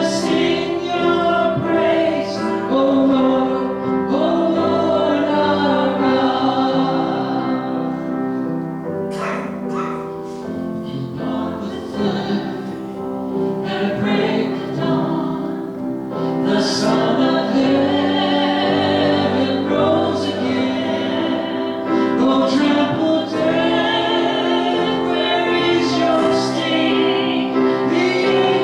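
Congregation singing a modern hymn together, a continuous sung melody with music behind it.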